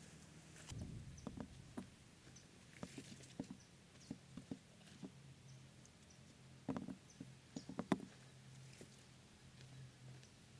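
Irregular light clicks and knocks of small objects being handled, with small clusters about a second in, around three seconds and near eight seconds, over a faint steady low hum.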